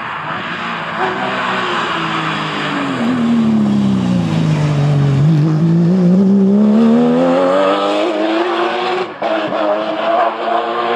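A Porsche rally car's engine easing off, its revs falling for several seconds as the car slows, then climbing again under hard acceleration. Late on there is a brief drop at a gear change before the revs hold high.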